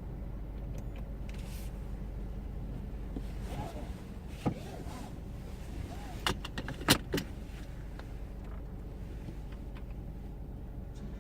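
A vehicle engine idling steadily, a low hum, with a few sharp clicks or knocks about halfway through.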